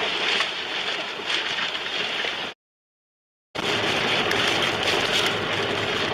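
Steady rush of storm wind and heavy rain, broken by about a second of dead silence (a dropout in the recording) about two and a half seconds in.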